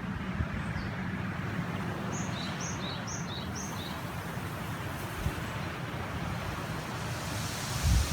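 Steady rush of a mountain river, with wind buffeting the microphone in low gusts and a strong gust near the end. About two seconds in, a songbird gives a quick run of four high two-note chirps.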